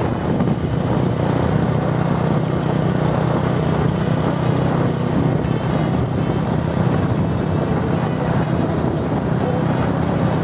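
Motorcycle engine running at a steady cruising speed, with a constant low hum under rushing wind noise on the microphone.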